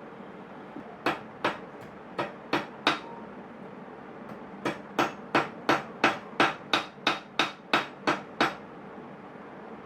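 Hammer blows in short, sharp taps: five strikes, a pause, then a steady run of about a dozen at roughly three a second.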